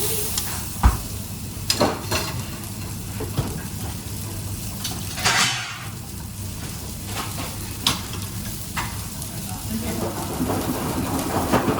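Food frying in a pan with a steady sizzle, while a utensil stirs and knocks against the pan: scattered sharp clanks, the loudest about a second in.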